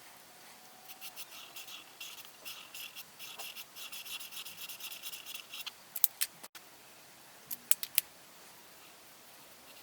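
Coloring tool scratching quickly back and forth on paper in dense strokes for several seconds, then stopping. After that come a few sharp clicks: two about six seconds in and three close together near eight seconds.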